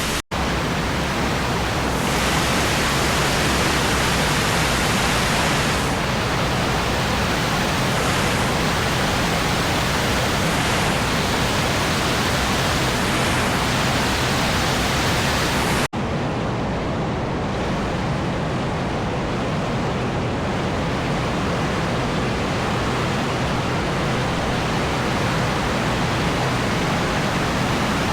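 Waterfall cascading over limestone steps: loud, steady rushing water, broken by a brief cut near the start and another about halfway, after which the rush is a little less hissy.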